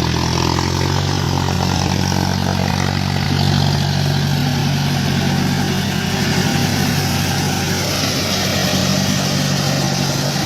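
John Deere four-wheel-drive tractor's diesel engine running steadily at a constant speed.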